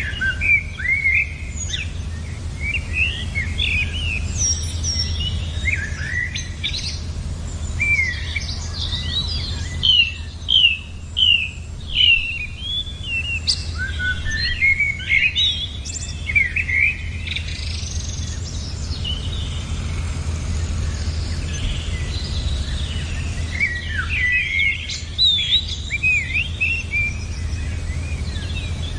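Small birds chirping and twittering in quick clusters of short, sliding notes, with brief lulls, over a steady low hum.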